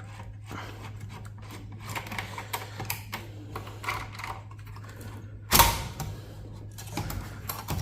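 Irregular small clicks and taps of hands working loose and handling server components, with one louder clunk about five and a half seconds in, over a steady low hum.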